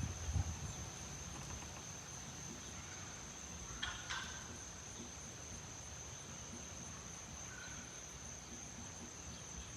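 A steady high-pitched insect trill, like crickets, over a faint low rumble, with a short chirp about four seconds in.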